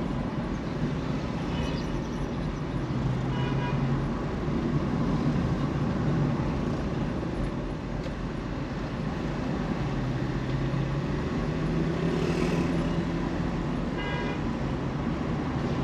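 City street traffic: steady engine and tyre noise, with short toots of car horns from other vehicles a few times.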